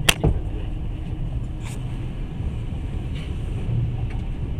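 Passenger train running on the rails with a steady low rumble, heard from inside the carriage. Two sharp knocks come close together right at the start.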